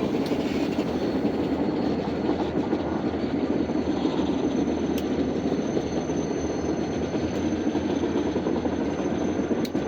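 Freight train rolling past on the rails, a steady rumble of wheels on track, with a sharp click about halfway through and another near the end.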